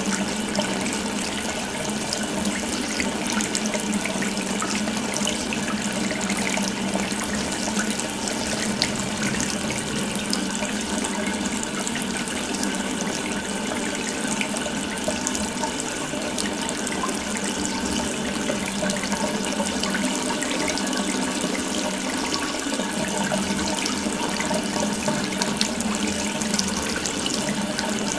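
Water running steadily from an open tap, an even rushing stream with no change in flow.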